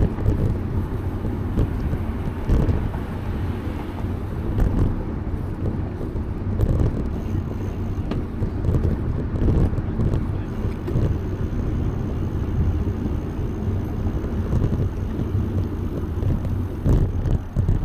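Low, uneven rumble of wind buffeting the microphone and road noise while riding a bicycle.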